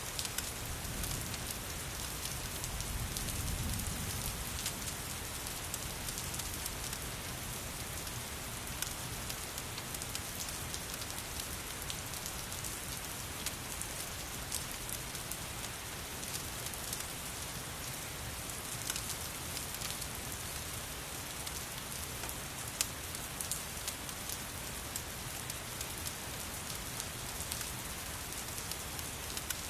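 Steady rain falling, mixed with the scattered sharp crackles of a wood fire burning in a fireplace. A soft low rumble swells briefly about three seconds in.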